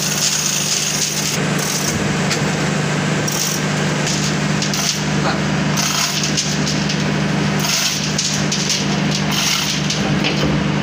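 Machinery running with a steady low hum, overlaid by irregular rasping, scraping noise that comes and goes.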